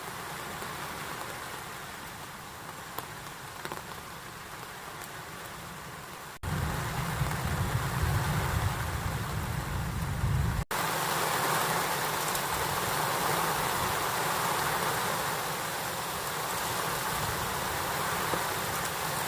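Heavy rain pouring down steadily, in three short clips cut together. In the middle clip a deep low rumble sits under the rain, and the last clip is louder.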